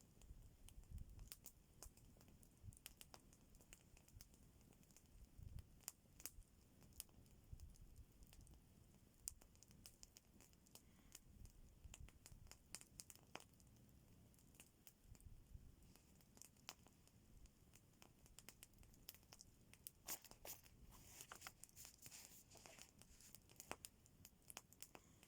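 Faint, irregular crackling: scattered small sharp clicks, with a spell of denser rustling about twenty seconds in.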